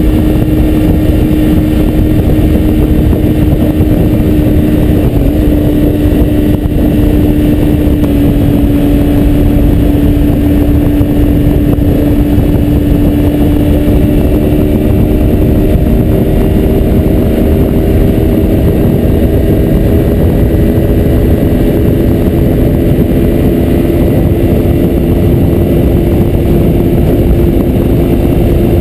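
2003 Kawasaki Ninja 250's parallel-twin engine running at cruising speed, under heavy wind rush on the microphone. Its pitch holds nearly steady, then creeps up slowly over the second half.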